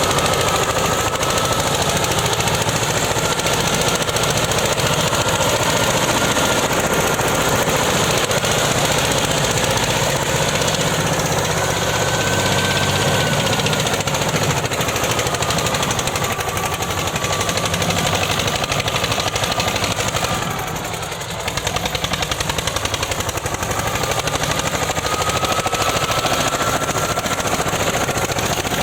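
Eicher 241 tractor's single-cylinder diesel engine running, a steady fast chugging with a thin wavering whine over it. It dips briefly about two-thirds of the way through.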